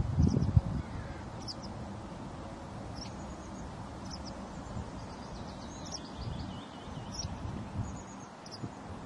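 Small birds chirping: short high calls every second or so, with a quick twittering run about midway. A low rumble, like wind on the microphone, is heard in the first second.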